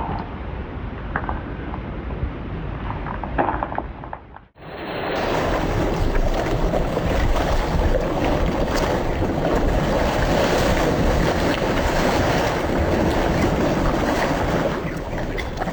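Outdoor rushing noise of wind and surf. About four and a half seconds in, it cuts abruptly to a louder, steady stretch.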